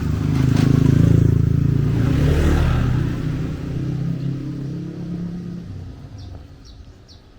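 A motor vehicle engine passing close by, loudest about a second in, then fading away over the next few seconds. Near the end, a bird chirps several times.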